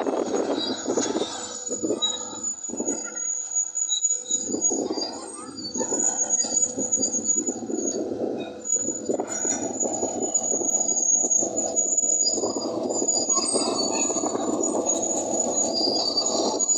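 Crawler bulldozer working, its engine running under load with a steady high-pitched squeal, typical of steel tracks, over the rumble, which dips briefly about four and eight seconds in.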